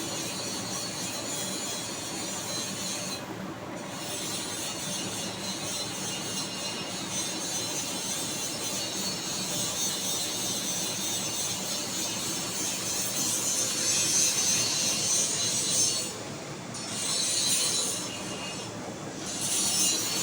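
Steady scraping and rubbing from hand work on a speaker magnet assembly, broken by short pauses, with louder stretches in the last few seconds.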